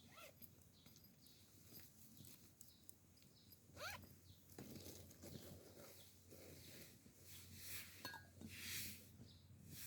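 Near silence: faint outdoor ambience with scattered soft clicks and a short rising bird chirp about four seconds in.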